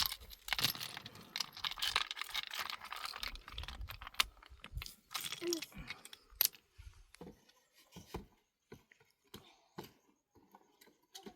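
Rustling and crinkling of material being handled for the first several seconds, then a series of scattered light clicks and knocks.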